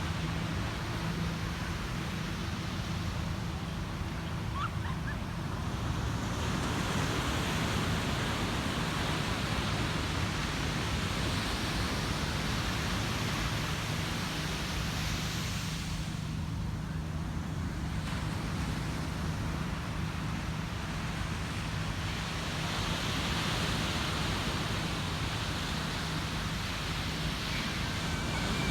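Ocean surf breaking and washing up on a beach, the hiss of the waves swelling and easing in long surges. Two faint short high chirps come through, one about five seconds in and one near the end.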